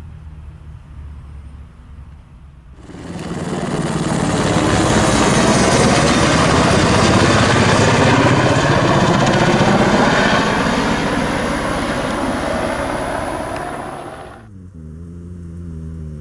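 Sikorsky HH-60G Pave Hawk helicopter passing low and close: a low engine drone, then about three seconds in a loud rush of rotor and turbine noise with a thin high whine sweeps in, holds for about ten seconds, and falls away sharply near the end, leaving a lower drone.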